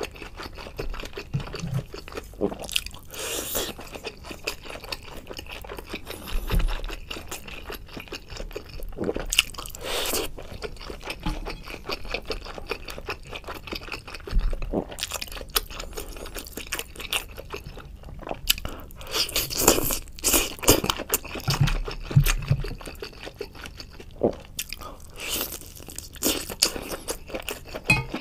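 Close-up chewing and crunching of crispy, battered fried food eaten off a skewer, with wet mouth sounds between bites. Louder bursts of crunching come several times, the biggest about twenty seconds in.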